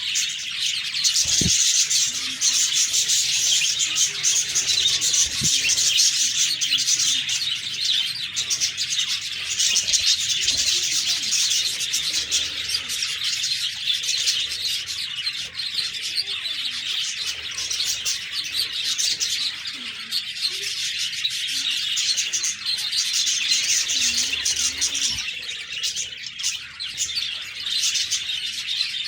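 A flock of budgerigars chirping and chattering continuously, many rapid overlapping high chirps with no pauses. A couple of faint low thumps sound within the first six seconds.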